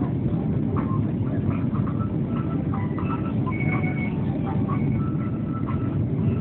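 Boeing 757-200 jet airliner during its take-off, a steady heavy rumble with faint short tones above it.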